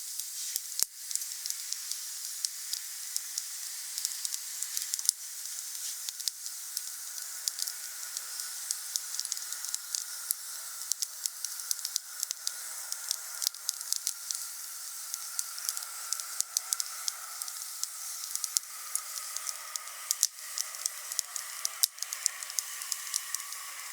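Wood fire crackling and hissing, with frequent sharp pops from the burning logs. Through the second half a faint thin whistle drifts slowly lower.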